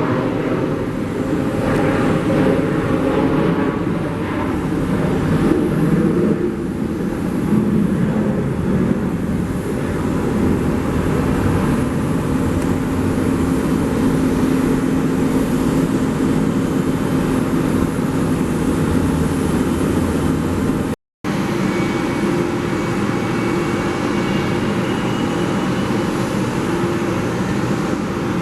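Jet airliner engines running loud and steady, cut off by a brief break about two-thirds of the way through before the engine noise resumes.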